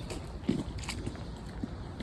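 Footsteps in wellington boots squelching through deep mud, a few uneven steps over a low rumble of wind on the microphone.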